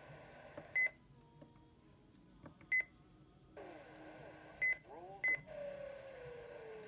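Midland WR300 weather radio on AM, tuned to KDKA 1020: a hiss of static with four short, sharp beeps, then whistling tones that glide up and down, ending in a long whistle falling in pitch. These are the siren-like noises the radio makes only on this AM station.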